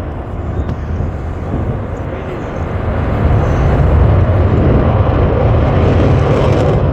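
An airplane flying past: a deep, noisy engine rumble that grows louder about three seconds in and holds.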